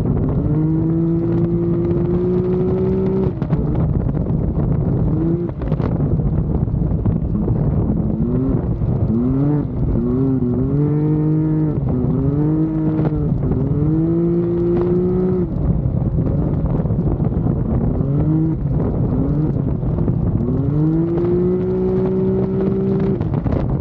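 Can-Am Maverick X3 side-by-side's turbocharged three-cylinder engine under hard acceleration, heard close up. The revs climb and hold several times, dropping off between pulls, over steady wind and road rush.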